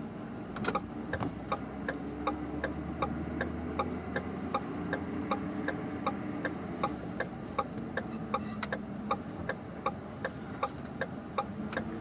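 A vehicle's turn-signal indicator clicking steadily, about two clicks a second, over the low hum of the truck's engine inside the cab.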